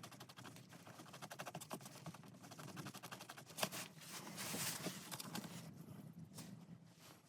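Faint rapid scraping of two-part epoxy being stirred and worked with a mixing stick. A single sharp click comes about three and a half seconds in, and a short hiss about a second later.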